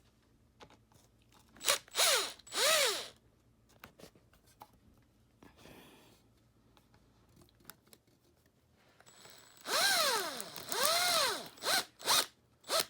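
Power drill fitted with a nut-driver attachment, spinning up and winding down in short trigger pulls, loosening a hose clamp screw: two pulls about two seconds in, two more about ten seconds in, then a few short clicks near the end.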